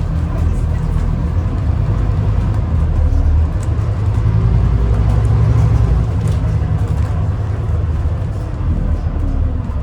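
Interior of a Scania N250UD Alexander Dennis Enviro400 MMC double-decker bus under way: a steady low engine and road rumble that grows a little louder around the middle and eases near the end, with a few light rattles.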